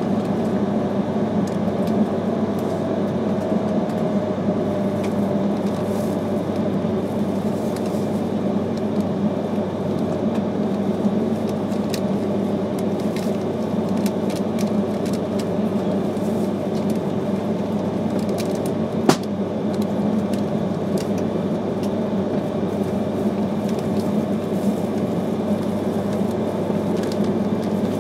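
E3-series Shinkansen train running, heard from inside the passenger cabin as a steady rumble, with a faint whine falling in pitch over the first few seconds. A single sharp click stands out about two-thirds of the way through.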